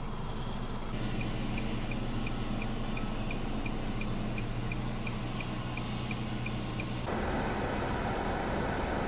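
A steady, low engine-like hum with a fast, even ticking, about three ticks a second, over it. Near the end it changes abruptly to a steady rushing noise.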